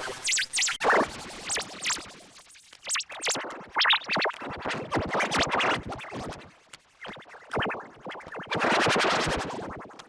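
A rapid jumble of short edited-in cartoon sound effects, one cut against the next: clicks, brief squeaky blips and bursts of hiss, in a scratch-like, choppy run.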